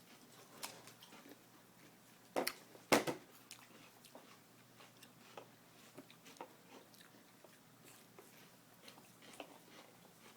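An apple being chewed with the mouth: soft crunching clicks throughout, with two louder crunches about two and a half and three seconds in.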